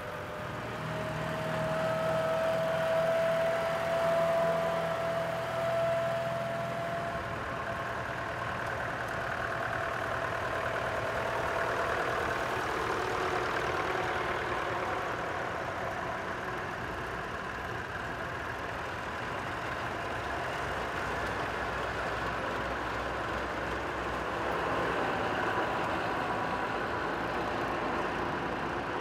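Vintage tractor engines running steadily. A clear high whine sounds from about a second in and fades out after about seven seconds.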